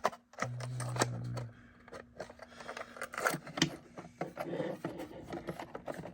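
Small plastic clicks and scrapes of an HO scale model railcar's plastic shell being worked onto its chassis, not seating properly, with a brief low hum about half a second in.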